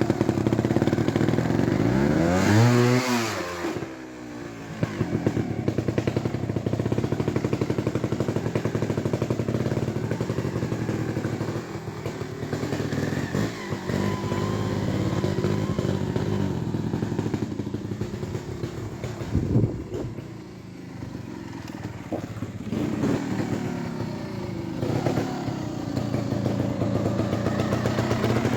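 Beta EVO trials motorcycle engine running at low revs, revved sharply about two to three seconds in and then dropping back, with further blips and a few short knocks as the bike works over obstacles.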